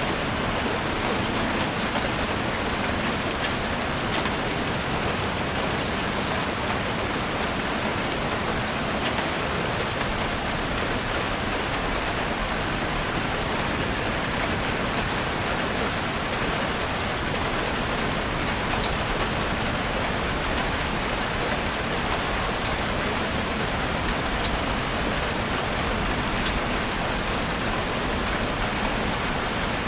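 Heavy rain drumming steadily on a roof, a dense even hiss with scattered sharper drop hits.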